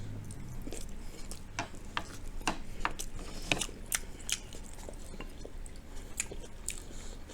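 Close-miked chewing of sauced, battered General Tso's cauliflower and rice: soft, wet mouth sounds with irregular sharp clicks, one or two a second.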